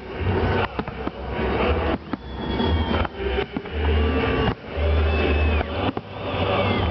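Fireworks salute going off: a rapid run of deep booms and sharp cracks, with a few faint high whistling glides.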